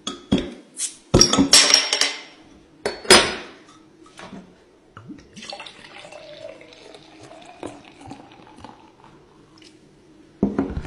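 Two drinking glasses, one of mineral water and one of liquor, being struck and handled, giving sharp glassy clinks with a high ringing tone. The loudest clinks come in a cluster over the first few seconds, lighter ones follow through the middle, and a few more strong ones come near the end.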